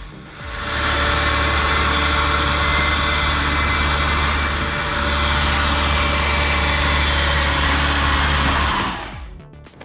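Heavy machine's engine running steadily with a constant low hum, cutting off about nine seconds in.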